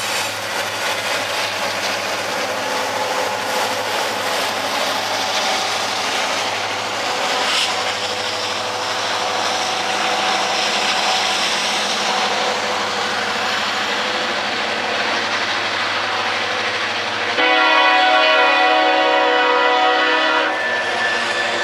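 Diesel freight train rolling past with a steady rumble and the clatter of wheels on rail. About 17 seconds in, the locomotive's air horn sounds one loud chord for about three seconds.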